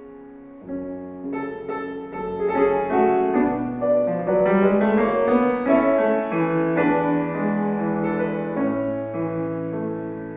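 Solo piano playing: soft at first, building to a louder passage with a quick rising run about four seconds in, then easing off toward the end.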